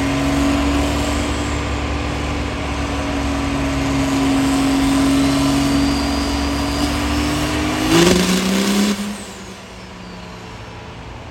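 Competition diesel pickup running flat out on a chassis dyno, its engine note rising slowly during the pull. About eight seconds in comes a brief loud rush of air as the pull ends, then the engine note drops and the sound falls away.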